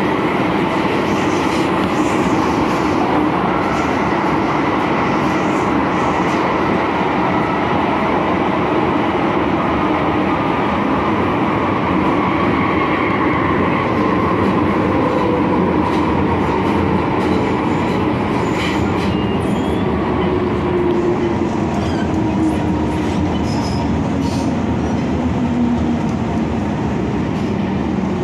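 MTR Kwun Tong line M-Train electric multiple unit running on the line: steady wheel-and-rail rumble with a motor whine that falls slowly in pitch as the train slows.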